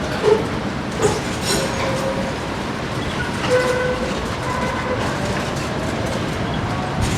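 A tram running along its rails, with a steady rolling rumble and a few sharp clicks from the wheels in the first couple of seconds. A thin whine rises slowly in pitch near the end.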